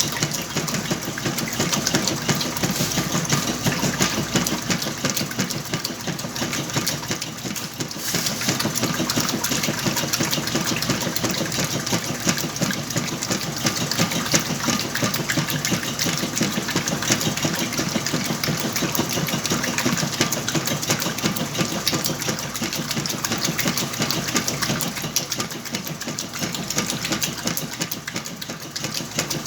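Whirlpool washing machine running steadily with a load of blankets, its motor and drive making a continuous mechanical hum and rattle that dips briefly about eight seconds in.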